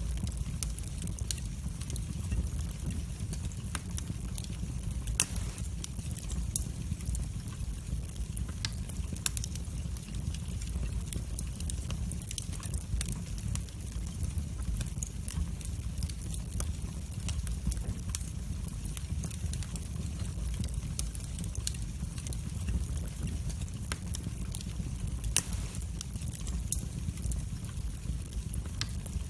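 Wood fire burning in a fireplace: a steady low rumble of the flames with scattered sharp crackles and pops, a louder pop about five seconds in and another near the end.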